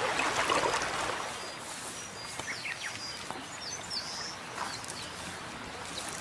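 River water rushing, louder for the first second or so, with short high bird chirps over it.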